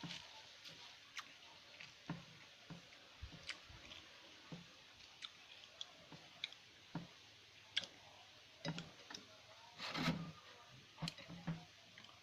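Faint, scattered chewing and mouth clicks of someone eating rice with fried salted fish, with a few soft knocks in between.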